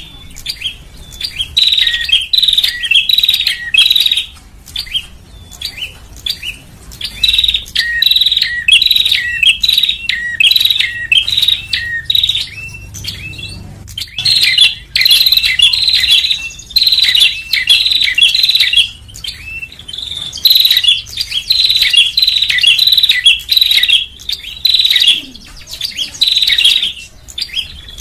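Prinia (prenjak) calling: rapid, sharp, repeated chirps in runs of several seconds with short breaks between them. It is a lure call played to draw small birds in.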